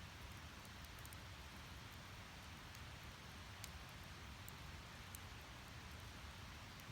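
Firewood burning in a Snow Peak Takibi fire pit: faint, with a few sharp crackles, the clearest about three and a half seconds in.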